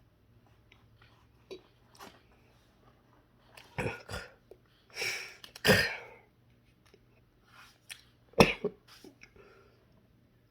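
A man sneezing and coughing in a short fit, a few loud bursts with the biggest in the middle; he puts it down to his sinuses acting up badly.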